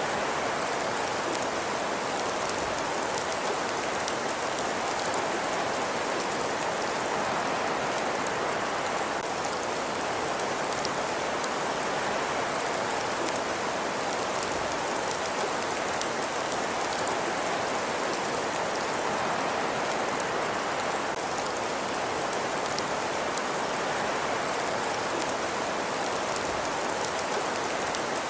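Fireplace ambience: an even hiss of crackling fire with faint, scattered small pops, steady throughout.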